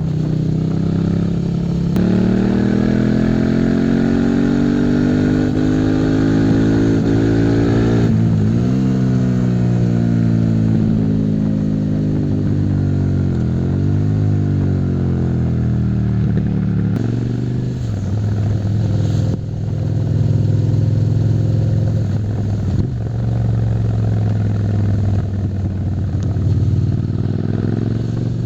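Suzuki SV650 90-degree V-twin engine running on the move, its pitch climbing under acceleration, dropping sharply about a third of the way in, then rising and falling again before settling steadier. A steady hiss of wind and road runs underneath.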